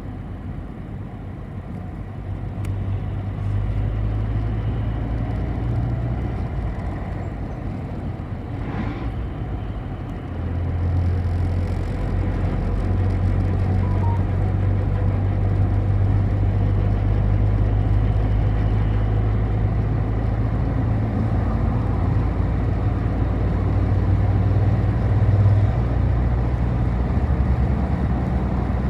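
City bus heard from inside the cabin while under way: a steady low engine drone with road noise. The engine note grows louder about three and a half seconds in and again around eleven seconds as the bus pulls harder, with a brief hiss just before nine seconds.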